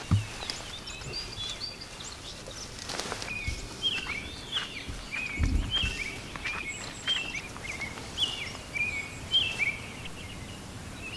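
A small songbird calling over and over, short high chirps that step in pitch, about two a second, against steady outdoor background noise. There is a dull low thump about halfway through.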